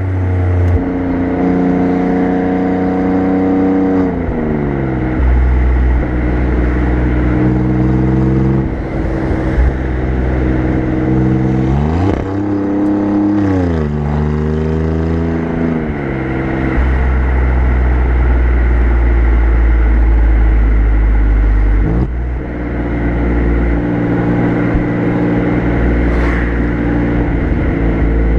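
Alfa Romeo Giulia Quadrifoglio's twin-turbo V6 exhaust heard up close at the rear of the car while driving. The engine pitch climbs and drops several times as the car speeds up and eases off through the gears, with stretches of steady cruising and a deep low rumble.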